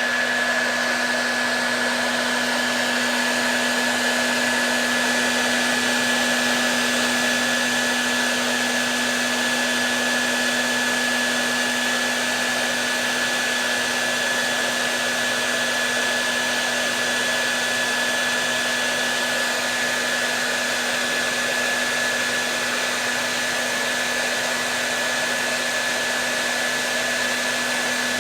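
Hair dryer running steadily: an even rush of air with a constant low hum and a thin high whine from the motor, unchanging throughout.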